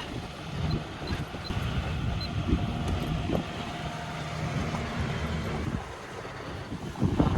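Wind gusting and buffeting the microphone aboard a sailing yacht, unevenly rising and falling. A faint steady hum runs through the middle.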